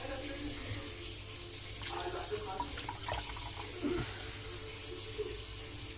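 Water poured into a dishwasher's salt reservoir, a steady splashing flow filling it to overflowing to flush out leftover salt, with a few light knocks along the way.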